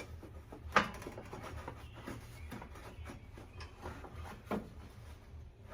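Clicks, light knocks and rubbing of parts being handled while working at the front of an engine around the fan and fan shroud, with a sharp knock about a second in and another near the end, over a low steady hum.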